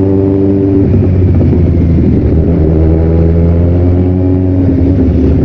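Kawasaki Z1000's inline-four engine running steadily while riding, its note shifting briefly about a second in before settling into a steady cruise again.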